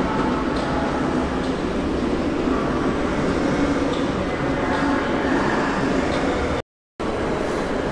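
Passenger train rolling through the station: a steady rumble of wheels on track with a few faint ticks, broken by a brief dropout to silence late on.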